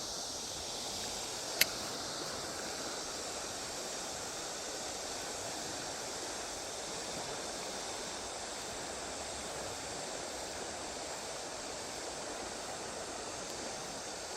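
River water rushing steadily, the river risen after rain. One sharp click about a second and a half in.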